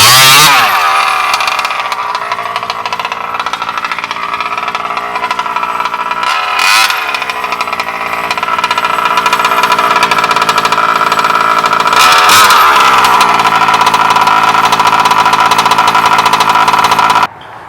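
Bartolone Racing BR40 big-bore gas engine in a Losi 5ive-T 2.0 RC truck running at high revs on speed runs. It swells and swoops in pitch as the truck passes close by at the start, about seven seconds in and about twelve seconds in, then holds a steady high note. The sound cuts off suddenly near the end.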